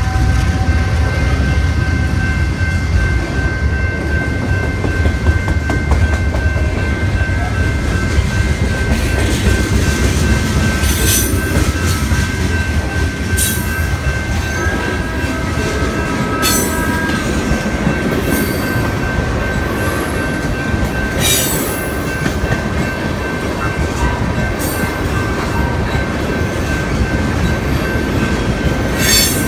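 BNSF freight train rolling past close by. A heavy diesel locomotive rumble at the start gives way to the clatter of freight cars, with a steady high wheel squeal and brief sharp screeches every few seconds.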